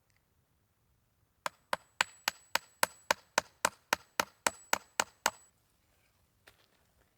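A quick, even run of about fifteen sharp knocks, close to four a second, lasting about four seconds.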